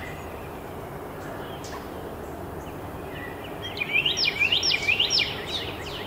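A bird calling a quick series of about ten loud, rising notes, starting a little before four seconds in and lasting about a second and a half. Faint short chirps of other small birds can be heard around it.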